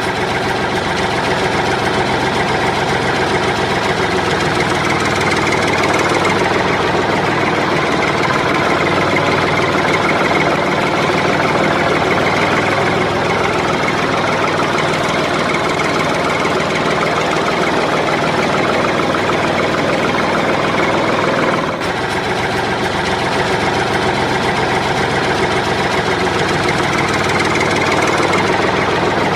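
A motor running steadily and continuously, with a brief dip about 22 seconds in.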